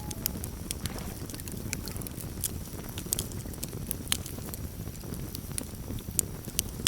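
Campfire crackling: scattered sharp pops and snaps of burning wood, irregular and a few to the second, over a steady low rumble of the flames.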